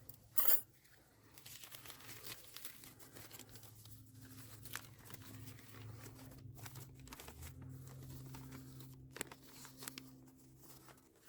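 Rustling and crinkling of tent gear being handled, with a sharp clatter about half a second in and a few light clicks after, over a faint steady hum.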